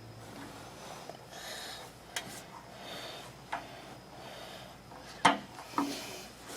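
Scattered sharp clicks and light knocks of parts and hand tools being handled, about five in all with the loudest near the end, with short rustling scrapes between them.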